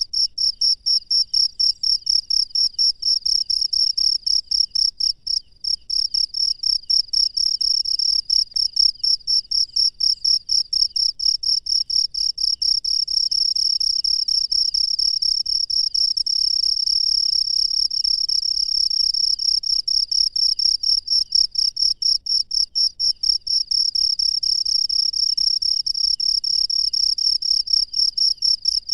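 Cricket chirping loudly and steadily in rapid, even pulses, with a short break about five seconds in.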